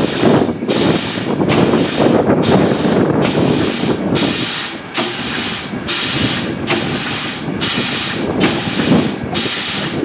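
Fowler steam traction engine working slowly, its exhaust chuffing in a regular beat of about one and a half chuffs a second, with a low rumble under it that eases off about halfway through.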